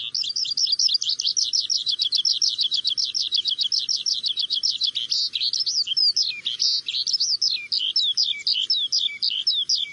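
A songbird singing a long, fast run of high chirps, about eight a second, changing about halfway to slower, more varied notes that slide downward.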